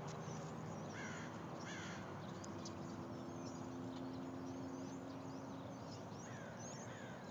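Birds calling outdoors: a few short downward-sliding calls about a second in and again near the end, over steady background noise and a faint low hum.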